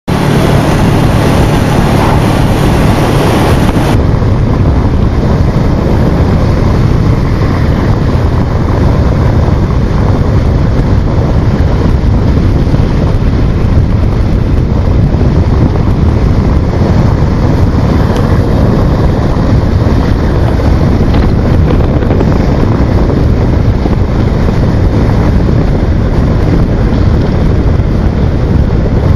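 Motorcycle riding at road speed, its engine running under a steady, loud rush of wind over the microphone. About four seconds in, the sound suddenly turns duller as the high end drops away.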